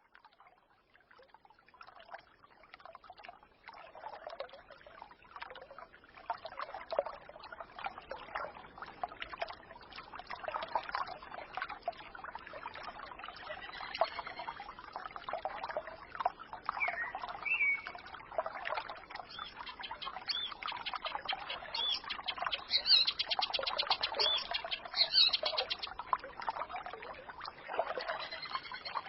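Small forest stream babbling and trickling, fading in from silence over the first few seconds. Songbirds chirp over it around the middle, with a louder, rapid bird trill near the end.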